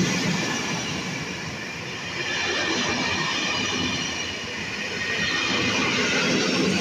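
Passenger coaches of a train passing at speed: a steady rush of wheels on the rails, with a high squeal from the wheels that grows stronger in the second half.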